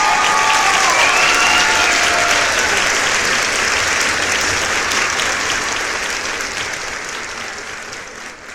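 Crowd applauding and cheering, with a few shouts in the first couple of seconds, then fading steadily over the last few seconds.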